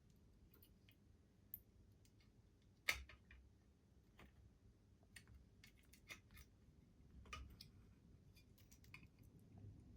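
Scattered faint clicks and taps of small model-locomotive parts and fine tools being handled during reassembly, with one sharper click about three seconds in.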